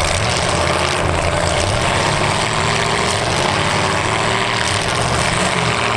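Demolition derby car engines running hard in a steady drone while two locked-together cars strain to pull apart.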